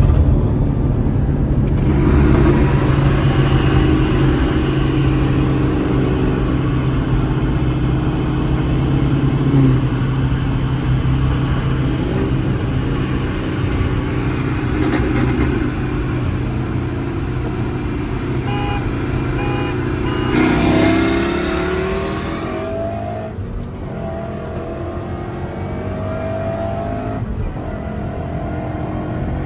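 A supercharged V8 car engine running at steady revs, then accelerating, its pitch climbing in several rising sweeps in the last third.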